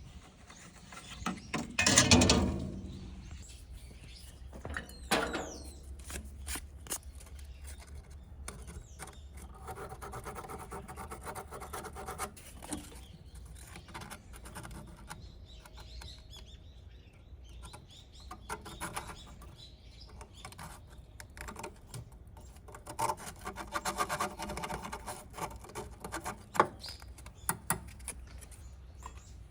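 Hand-tool and parts-handling noises during repair work: scattered clicks and knocks, with one louder clatter about two seconds in, and two stretches of scraping or rubbing, one near the middle and one toward the end.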